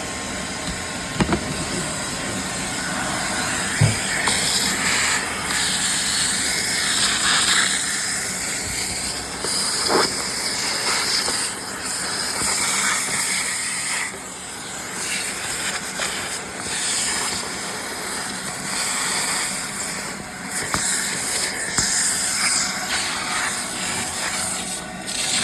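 A steady, high hiss like rushing air, with several brief dips and a few light knocks.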